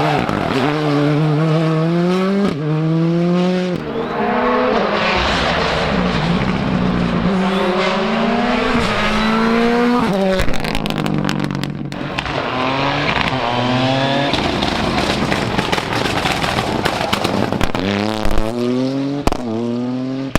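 Rally car engine revving hard, its pitch climbing and dropping sharply again and again as it accelerates and shifts up through the gears, with a few sharp cracks in between.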